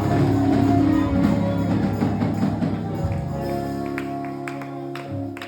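Church music backing the preacher: sustained keyboard chords held under a few light percussion taps, slowly getting quieter.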